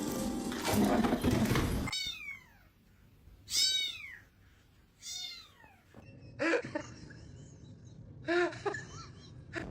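A cat meowing about five times, the first few calls falling in pitch, after a loud rustling noise in the first two seconds.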